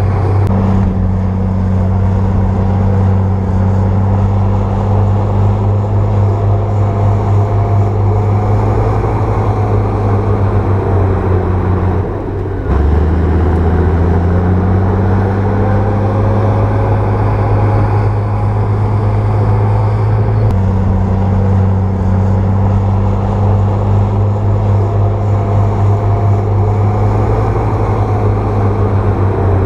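A bulldozer's diesel engine running steadily with a low drone. Its pitch drops briefly about twelve seconds in and shifts again around twenty seconds.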